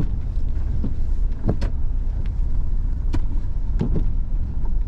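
Inside a moving car's cabin: a steady low rumble of engine and road noise, with a few short clicks or knocks about a second and a half in and again near three and four seconds.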